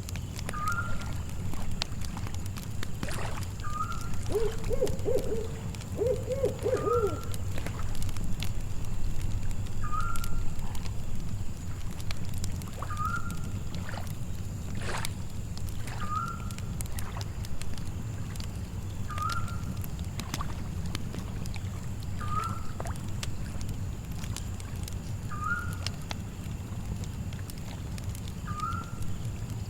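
Layered night ambience: a campfire crackling with sharp pops over a steady low rumble, a short call repeating about every three seconds, and two quavering owl hoots a few seconds in.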